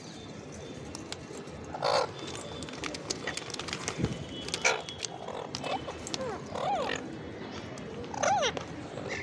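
Parakeet calling with scattered short chirps and squawks, several of them arched calls that rise and fall in pitch, over a steady background hiss.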